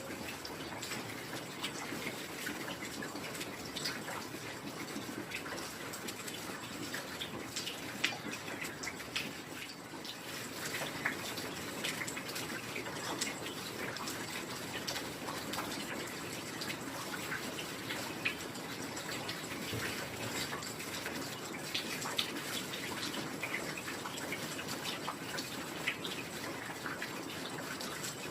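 Steady heavy rain falling, an even hiss with many scattered drips and patters.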